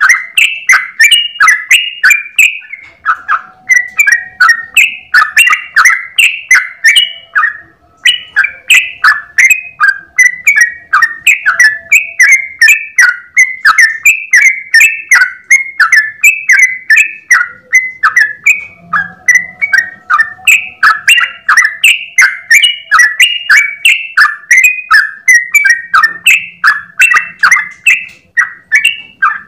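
Yellow-vented bulbul (trucukan) singing loudly in a fast, unbroken run of chirping notes, several a second, with only a brief pause about eight seconds in.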